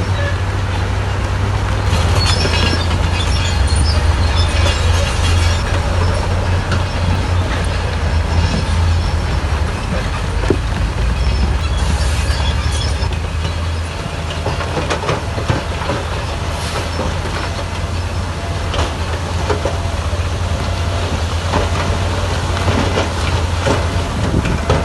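Crawler bulldozer working: a steady diesel engine rumble with metallic squealing and clanking from its steel tracks, busiest in the first half.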